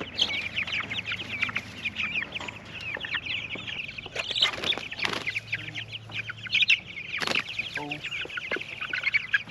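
A flock of young meat chickens cheeping continuously in rapid, high chirps, with a few short knocks or rustles among them.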